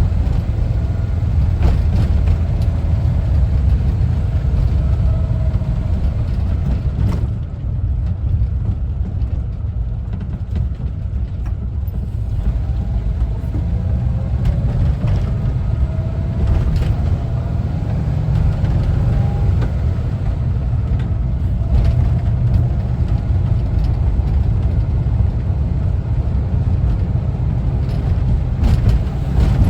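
Air-cooled flat-four engine of a 1974 Volkswagen Westfalia camper running under way, with a loud steady low rumble and occasional sharp clicks and rattles. It eases off slightly for a few seconds about a quarter of the way through.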